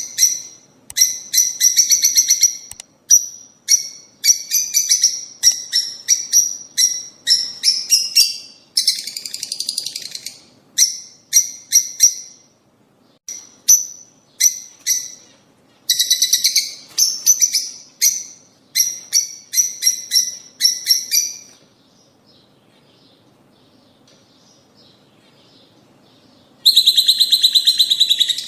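Lovebirds chattering in bursts of rapid, shrill chirps. Past the middle there are a few seconds of only faint calls, then dense chattering starts again near the end.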